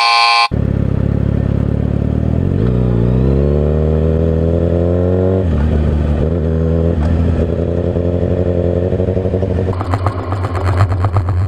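Kawasaki Ninja ZX-6R inline-four engine under way. It rises in pitch as the bike accelerates, drops sharply at a gear change, then holds a steady cruise. Near the end a choppy, fluttering noise joins it.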